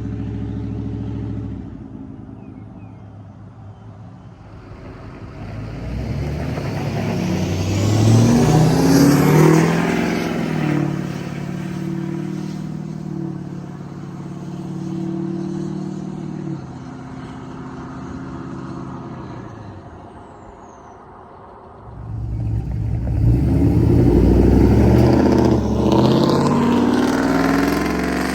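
Pickup truck V8 with a loud aftermarket exhaust accelerating hard twice. It rises in pitch and loudness about six seconds in, settles into steadier running, then surges again about twenty-two seconds in.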